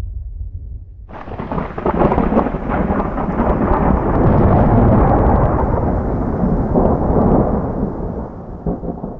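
Thunder during a rainstorm: a clap breaks in sharply about a second in and rolls on as a long, crackling rumble over the rain, easing off near the end.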